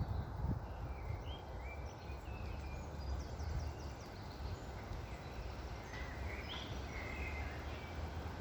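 Birds chirping in short, scattered calls over a steady low rumble of wind.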